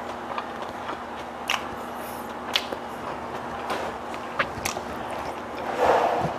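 Close-up eating sounds of a person chewing a flaky flatbread pancake: scattered short, wet mouth clicks and smacks, with a louder, fuller mouth sound just before the end.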